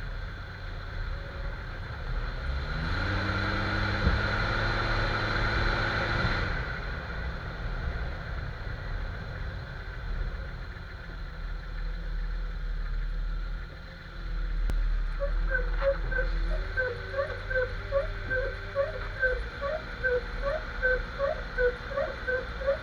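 Jeep XJ driving with steady road and drivetrain rumble and its engine revving up for a few seconds early on. From about halfway through, a rhythmic squeak repeats two to three times a second: the front-end noise being tracked down.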